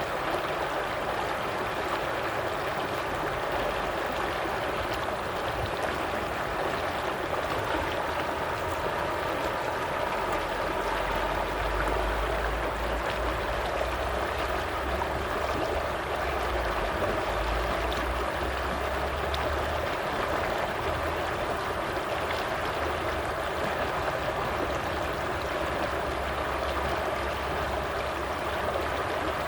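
Stream water flowing and babbling steadily, with a low rumble underneath from about ten seconds in until near the end.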